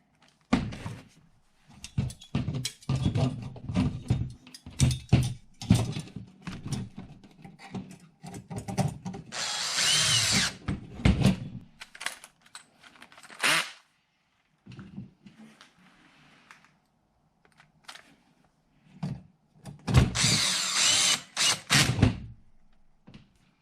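A cordless power driver spinning in short runs, twice, about ten seconds apart, driving the cross member screws into an RC truck frame, between them the clicks and knocks of small metal and plastic parts being handled.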